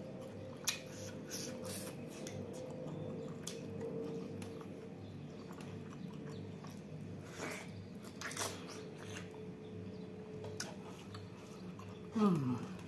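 Close-up chewing of a mouthful of prawn and rice, with scattered wet mouth clicks and smacks over a steady low hum. A short falling vocal sound comes near the end.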